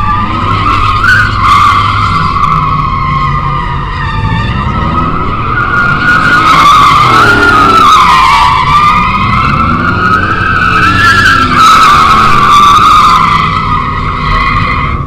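Car tyres squealing without a break as the wheels spin, the squeal wavering in pitch, while the car's engine revs up and down underneath.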